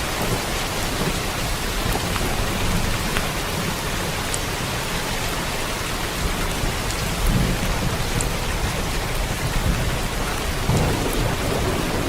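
Steady rain falling, a dense hiss with occasional sharp drop ticks, and low rumbles of thunder swelling about seven seconds in and again near the end.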